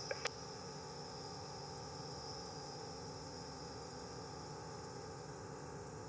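Steady hiss and static of an air traffic control radio feed between transmissions, with two short clicks right at the start.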